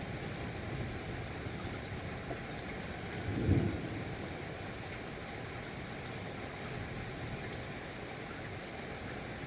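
Steady rainfall, an even hiss of rain, with one brief low rumble about three and a half seconds in.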